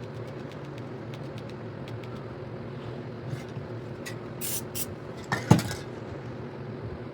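Short hisses of an aerosol spray-paint can, a few quick bursts, followed soon after by one loud sharp knock, over a steady background hum.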